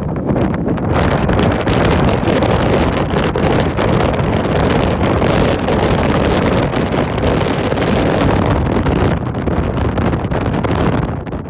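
Strong wind buffeting the microphone over the rush of ocean waves: a loud, steady noise that eases slightly near the end.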